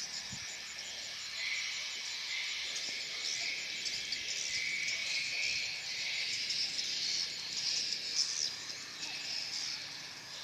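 Many swiftlets chirping and twittering together in a swiftlet house, a dense high-pitched chorus of overlapping calls that keeps going without a break.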